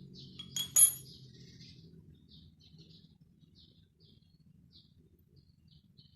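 A small bird chirping over and over in short high notes. Just under a second in come two sharp clicks with a brief ring, the louder one the loudest sound here.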